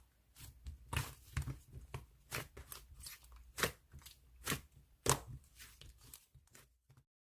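Slime being worked by hand, making irregular sticky clicks and pops, the sharpest about five seconds in. It cuts to dead silence near the end.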